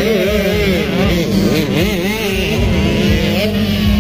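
Several motocross bike engines revving on the track, their pitches rising and falling as the riders work the throttle, over a steady low drone.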